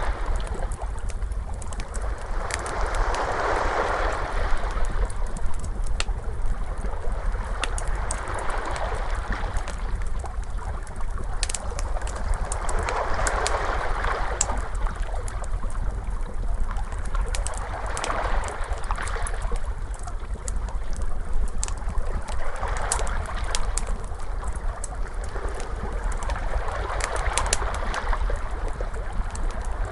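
Ocean waves washing in, swelling and fading about every four to five seconds over a low steady rumble, with a wood fire crackling in many small sharp pops throughout.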